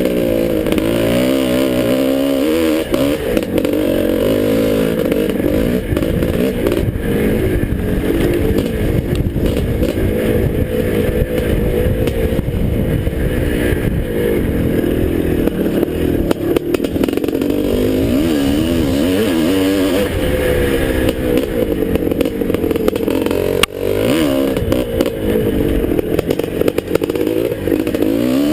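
Two-stroke single-cylinder engine of a 1981 Husqvarna 430 motocross bike being ridden hard, its pitch rising and falling constantly with the throttle, over a rough low rumble.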